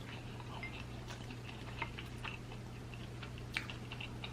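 Soft, irregular mouth clicks and quiet chewing from someone eating a cheesesteak sandwich, with two slightly louder clicks, over a steady low hum.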